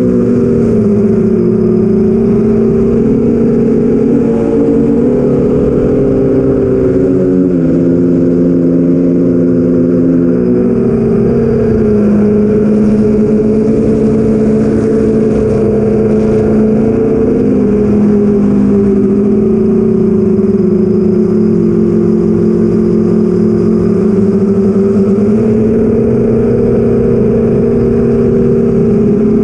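An 8-inch FPV quadcopter's four brushless motors and 8-inch propellers buzzing in flight, heard loud from the onboard camera. The pitch drops about seven seconds in, climbs back about three seconds later, and shifts again with throttle changes later on.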